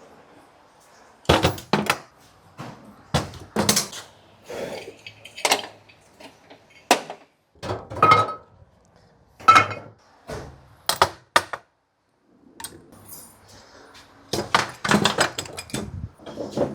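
Tools and metal parts being handled and set down in an irregular string of sharp knocks, thunks and clinks, a couple of them with a short metallic ring.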